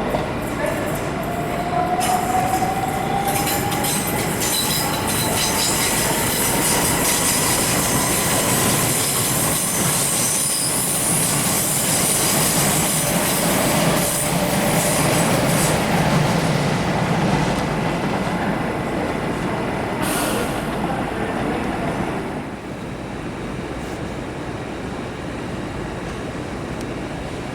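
Train moving along the platform with wheels squealing on the rails and a motor whine that rises slowly in pitch as it picks up speed. There is a brief sharp burst about twenty seconds in, and the sound drops away soon after.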